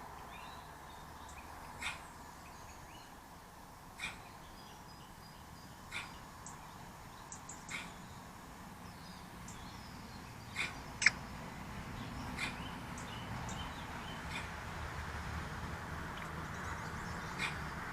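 Short, sharp animal calls repeated about every two seconds, the loudest a little past the middle, over a steady low background rumble.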